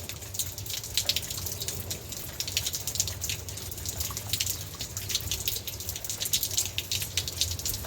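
Rain falling, with many separate raindrop impacts and splashes on hard surfaces, over a low steady hum.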